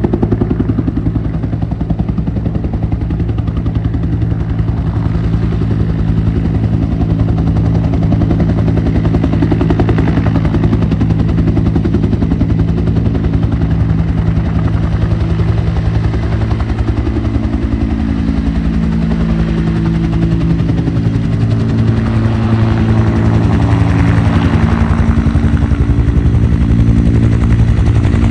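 Military helicopter flying, a steady rapid rotor chop with engine tones that shift in pitch as it moves, growing a little louder near the end.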